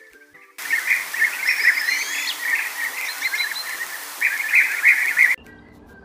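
Lilac-breasted roller calling: a dense, harsh chattering run of calls with a few higher whistled notes over it, starting about half a second in and stopping shortly before the end. Soft background music runs underneath and fills the short quiet gaps at either side.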